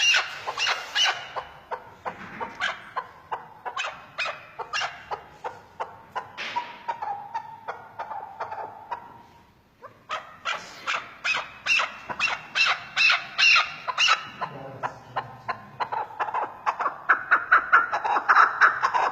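Chukar partridge calling: a long run of short, sharp, repeated notes, several a second, with a brief pause about halfway through and louder calling near the end.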